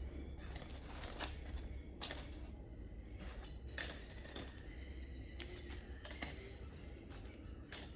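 Irregular light clicks and taps, a couple every second, over a steady low hum.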